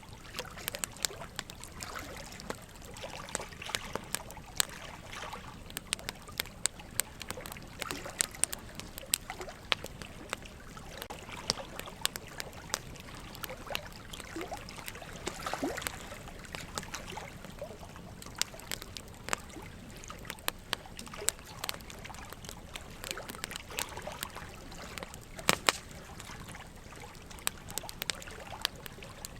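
Wood fire crackling with frequent sharp, irregular pops, over a steady trickle of running water.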